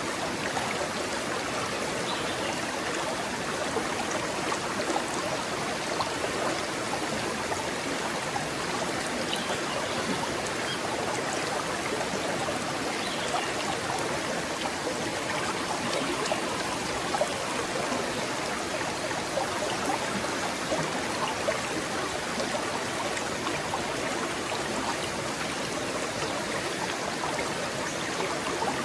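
Small forest stream flowing and trickling over stones, a steady even rush of water with small splashes and gurgles.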